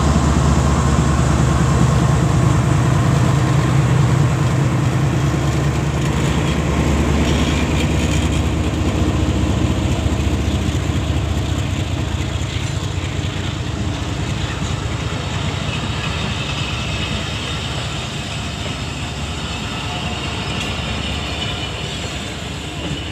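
A diesel-electric passenger train pulling out. The locomotive's engine drone is strongest at first and fades as it passes, leaving the coaches rolling by with their wheels rumbling and clattering on the rails. The sound grows gradually quieter as the train moves off.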